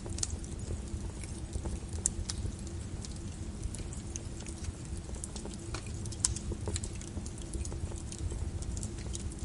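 Wood fire burning in a fireplace: a steady low rumble and hiss with irregular crackles and pops, a sharper pop about two seconds in and another about six seconds in.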